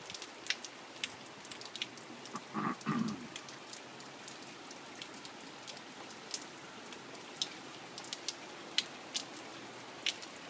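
Steady rain falling, with sharp ticks of drips and raindrops striking close by scattered throughout. There is a brief lower sound about three seconds in.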